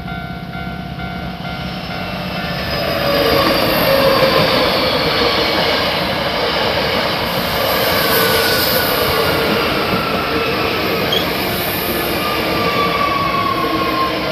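A train running past at the station platform, growing louder about three seconds in. Several high whines slowly fall in pitch as it goes by.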